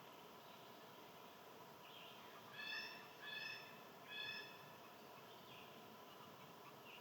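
A bird calling three times in quick succession, each call a drawn-out, even-pitched note of about half a second, over quiet outdoor background.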